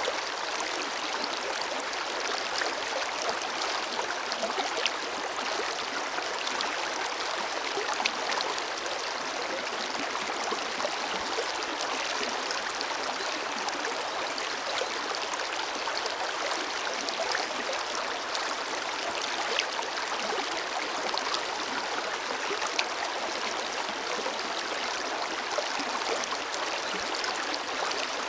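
Forest river flowing over rocks: a steady rush of water with small splashes and gurgles scattered through it.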